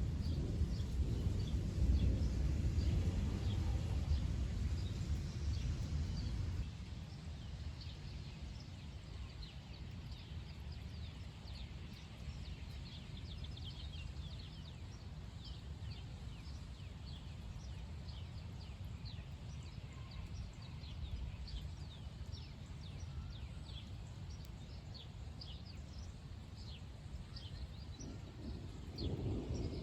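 Thunder rumbling low for the first six seconds or so, then dying down to a steady low rumble that swells again near the end. Short high chirping bird calls repeat many times throughout.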